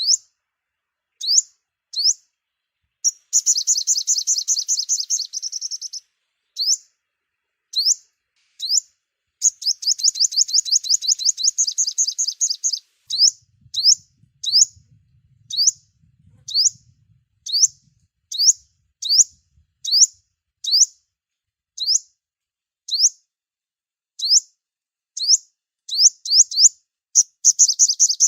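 Sunbird calling: short, sharp rising chirps repeated about once a second. A fast trill of two to three seconds breaks in twice, about three and ten seconds in.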